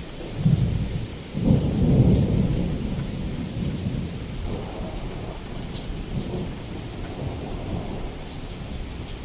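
Heavy rain falling steadily against a window while a clap of thunder breaks about half a second in, peaks a second later and rolls on, slowly fading into the rain.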